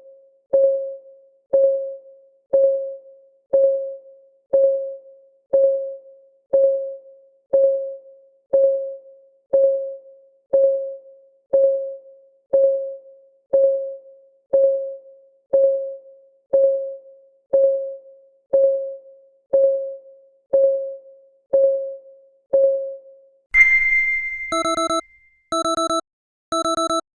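A countdown timer's synthetic clock tick, a short pitched tick about once a second. Near the end a bright ding rings out, then three short alarm beeps about a second apart mark the end of the countdown.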